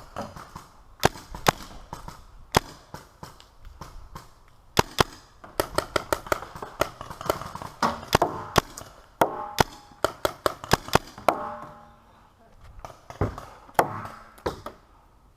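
Paintball markers firing: sharp pops, some single and some in quick strings, thickest in the middle of the stretch.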